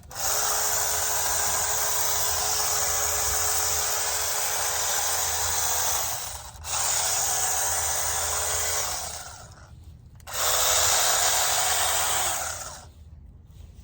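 Battery-powered mini chainsaw running at full speed in three bursts, a long one of about six seconds then two shorter ones, stopping briefly between them. It gives a steady electric motor whine over chain noise.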